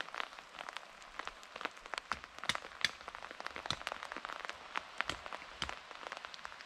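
Irregular patter of raindrops: light taps of varying strength, several a second.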